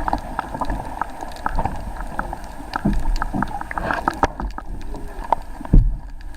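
Underwater recording: scattered sharp clicks and crackles over a steady low rumble, with one heavy thump near the end.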